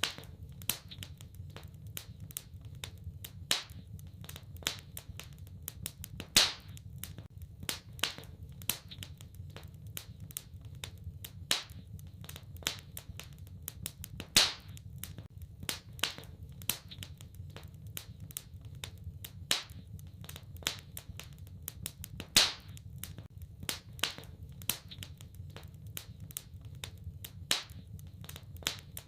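Wood fire crackling in a fireplace: a steady run of small sharp crackles with louder pops about every eight seconds, over a low steady rumble of the burning fire.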